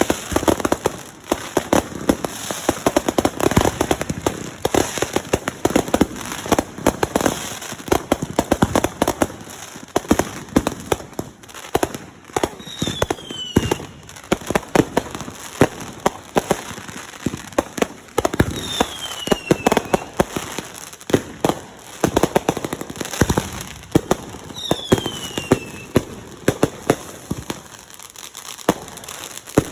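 Fireworks going off in rapid, continuous volleys of crackling bangs, with three short falling whistles spaced several seconds apart.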